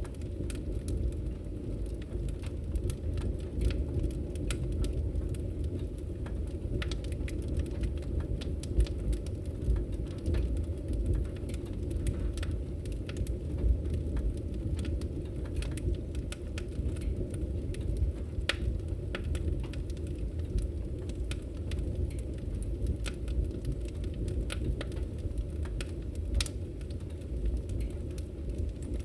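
Campfire crackling: a steady low rumble of burning with scattered, irregular sharp pops and snaps.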